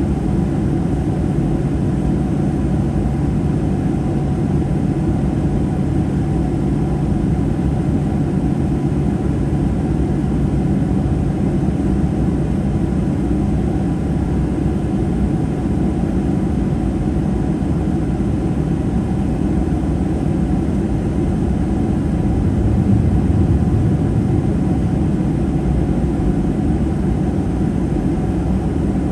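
Steady cabin noise inside a Boeing 737-800 in flight: a deep, even rumble of engines and airflow with a steady hum, swelling slightly about 23 seconds in.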